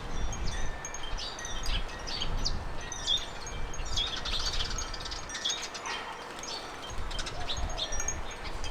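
Small garden birds chirping and twittering in quick, overlapping short notes, busiest midway through, with wind rumbling on the microphone.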